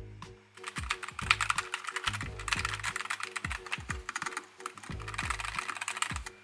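Fast typing on a Nuphy Air 75 V2 low-profile mechanical keyboard: a dense run of key clicks that starts about half a second in, eases briefly midway and stops just before the end. Background music with a steady beat plays underneath.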